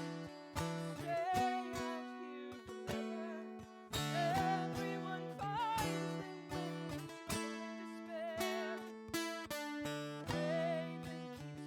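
Acoustic guitar playing live, chords picked and strummed with a new attack every second or so, under a wavering melodic line.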